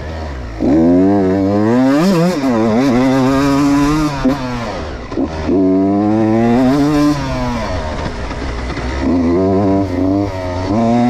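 Beta 125 RR Racing two-stroke motorcycle engine revving hard under throttle, its pitch rising and falling. It backs off briefly about four to five seconds in, runs softer for a couple of seconds after about seven seconds, and ends with short bursts of throttle.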